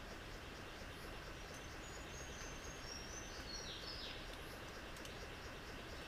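Forest ambience with a steady insect hiss. A bird gives thin, high whistled notes from about one and a half seconds in, ending in a couple of quick downward sweeps.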